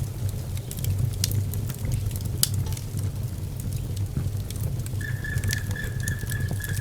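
Wood fire burning in a fireplace: a steady low rumble with scattered crackles and sharp pops. About five seconds in, a thin high whistle starts and holds.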